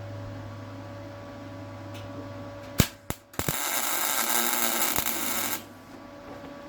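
Electric welder running a short weld on car body steel: a steady hum, two sharp clicks a little under three seconds in, then about two seconds of arc crackle that stops abruptly.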